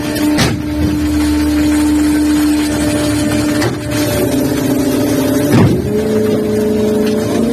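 Fishing vessel's machinery running with a steady mechanical hum that changes pitch twice, over a wash of noise, with a few sharp knocks.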